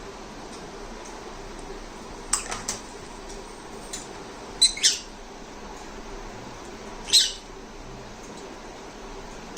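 Lovebirds giving short, sharp, high squawks: a quick run of three about two and a half seconds in, two loud ones near the middle, and one longer one about seven seconds in.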